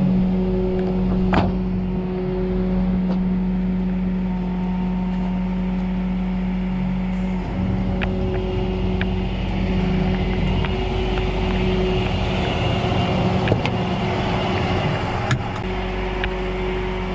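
Tow truck engine running steadily, with a few short clicks and knocks over it.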